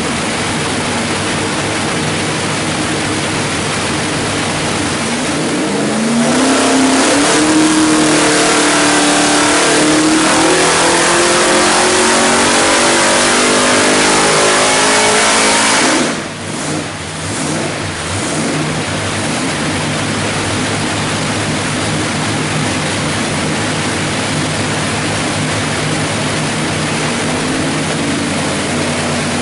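427 cubic-inch small-block Chevrolet stroker V8 on an engine dyno, running steadily, then making a pull: the revs climb steadily and louder for about ten seconds before dropping back sharply to a steady idle.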